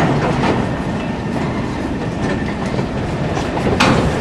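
A train of railway tank wagons rolls past, pushed by a TEM2 shunting diesel locomotive. Its wheels clatter over the rail joints over a steady low rumble, with a sharp knock right at the start and another just before the end.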